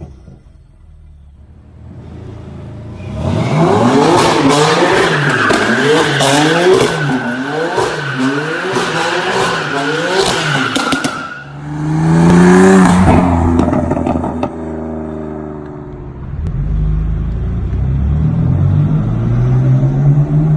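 BMW M4 F82's twin-turbo straight-six revving rapidly up and down while the car drifts, with a continuous tyre squeal, after a quiet start. Then a short loud rev, and the engine pulls with a lower, rising note near the end.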